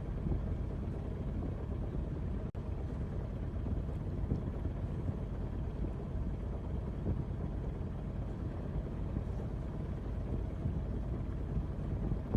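Steady wind rumbling on the microphone aboard a boat, mixed with the rush of water, with a momentary cut-out about two and a half seconds in.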